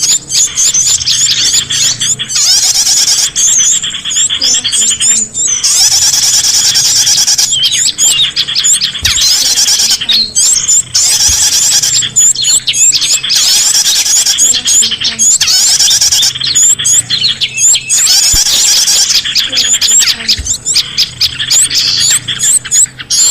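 Bird-lure recording of many small songbirds calling at once: a dense, loud, unbroken mass of rapid high-pitched chirps, whistled glides and trills.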